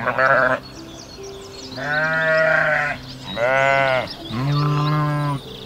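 Sheep bleating: one short bleat, then three long, wavering bleats in quick succession.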